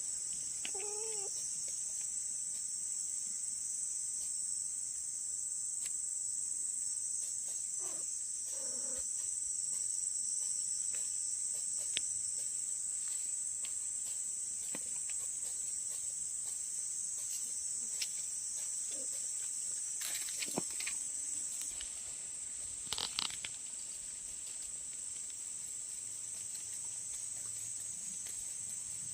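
Steady high-pitched insect chirring, like crickets, with a few faint clicks scattered through it.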